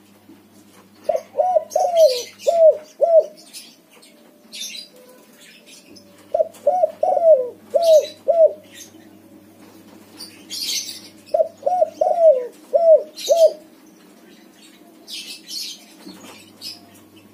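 Spotted dove, a white colour form, cooing in three phrases of five or six quick notes, each note sliding down in pitch. Small birds chirp high and faintly between the phrases.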